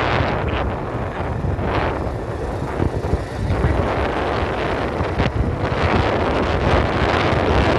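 Strong wind buffeting the microphone over a steady low rumble, in uneven gusts.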